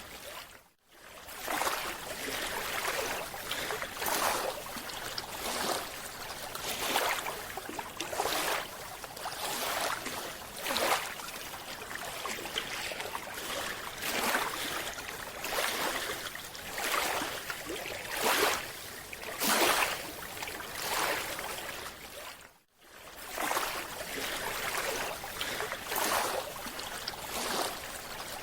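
Water rushing and splashing in repeated swells every second or two, cutting out briefly twice.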